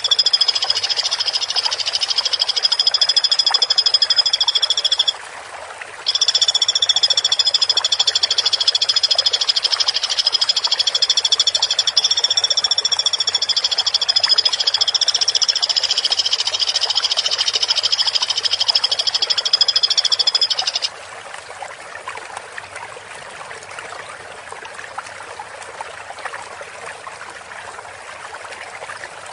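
Woodpecker calling in a long, rapid, dense rattling trill, with a short break about five seconds in. The trill stops about three-quarters of the way through, leaving a quieter steady hiss like running water.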